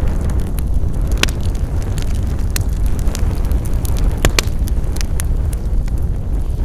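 Wood fire crackling: scattered sharp pops and snaps, a few seconds apart, over a steady low rumble of burning.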